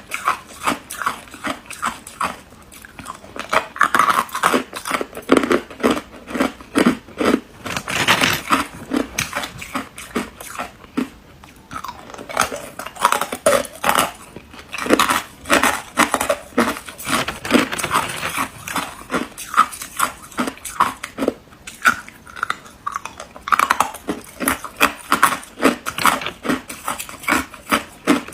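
A person biting and chewing ice close to the microphone, with rapid, loud crunches several a second, broken by a few short pauses between mouthfuls.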